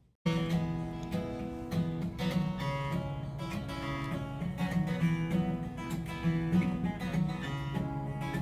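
Acoustic guitar strummed in a steady rhythm, playing a song's opening chords; it starts abruptly a moment in.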